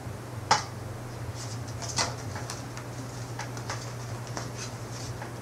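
Scattered light taps and rustles from props being handled, the two clearest about half a second and two seconds in, over a steady low hum.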